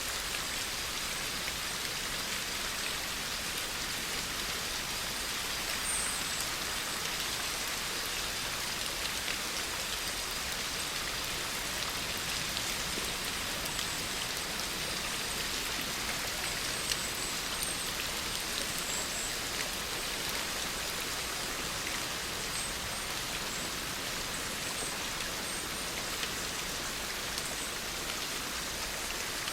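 Steady rain falling, a dense even hiss of drops with faint scattered pattering.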